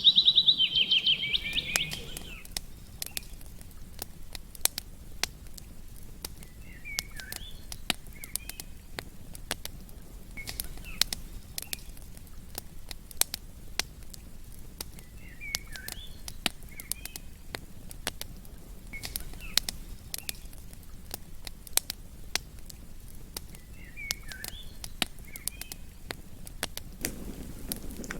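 Campfire crackling with frequent sharp pops, while a bird repeats a short chirping call every few seconds. A louder, rapid bird trill fades out in the first two seconds.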